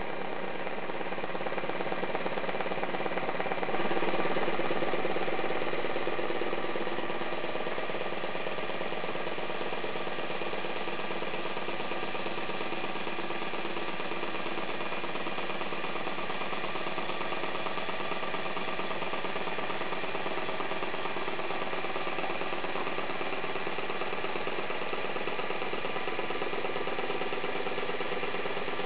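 Small Stirling engine-generator running steadily at about 500 rpm on a cup of boiling water, its mechanism rattling. The sound gets louder about four seconds in and eases back over the next few seconds.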